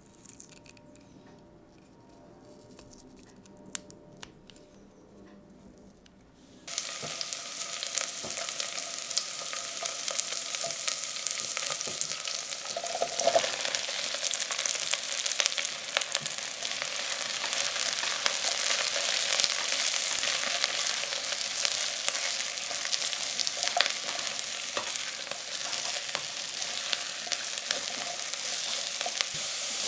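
Faint knife clicks on a wooden chopping board as garlic cloves are sliced, then a sudden start of loud sizzling: chopped mushrooms, onion and garlic frying in olive oil in a stainless steel pot, stirred with a spatula.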